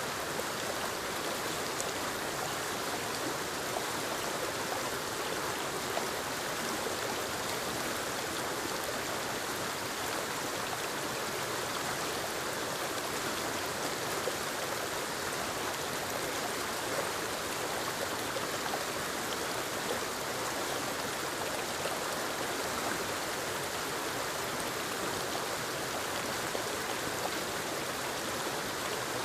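Small forest waterfall spilling over rocks into a stream: a steady rushing and splashing of water with no changes.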